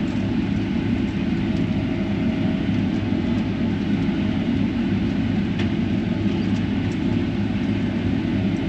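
Combine harvester running steadily while cutting wheat, a constant low machine drone heard from the operator's seat, with a faint steady whine above it.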